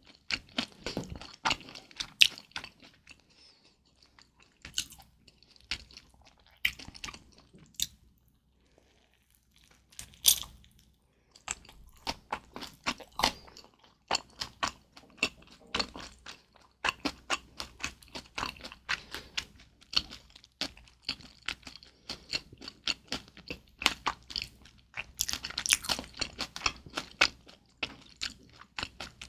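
Close-miked chewing of kimchi dumplings: a steady run of wet clicks and crunches, with a short pause about a third of the way through and a burst of faster chewing near the end.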